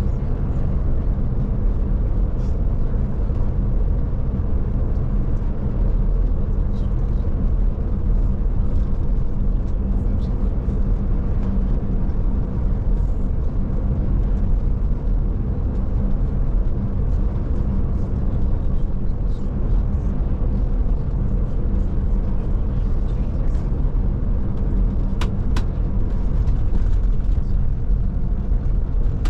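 Steady low engine and road rumble heard inside a Scania Touring coach on the move, with a few faint ticks near the end.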